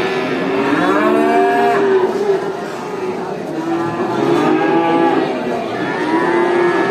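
Several cows mooing at once: long, overlapping calls at different pitches, one after another with no break.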